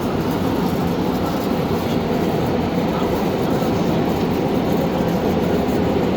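Steady, loud din of a crowded indoor trade-fair hall: a dense, even wash of many distant voices and machinery noise with no single voice or event standing out.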